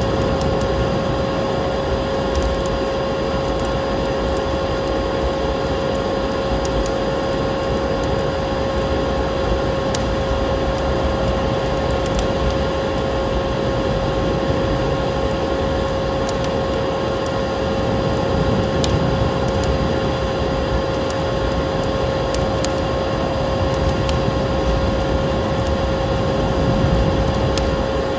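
Wood fire crackling in a fireplace, with scattered sharp pops, over a steady rushing noise and a constant hum.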